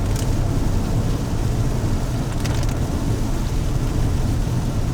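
Steady low rumble of a car's engine and tyres heard from inside the cabin while driving on a wet road, with a couple of faint brief ticks.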